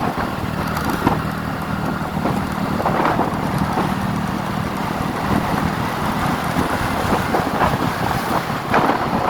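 Motorcycle engine running steadily at cruising speed, a constant low hum mixed with road noise.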